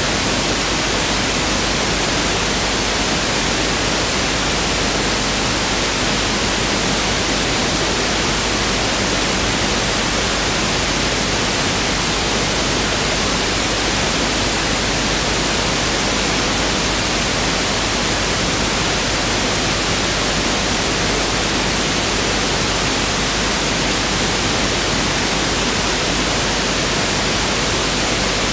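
Pink noise (1/f noise) test signal: a steady, even hiss at constant level with no changes.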